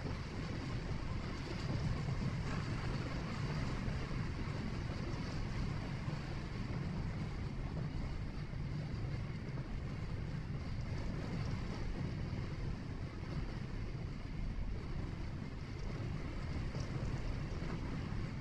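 Steady low rumble of road and engine noise from a vehicle driving along, heard from inside the cabin.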